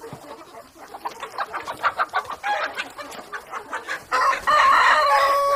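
Domestic chickens clucking in a run of short calls, then about four seconds in a rooster starts a long, louder crow held at a steady pitch.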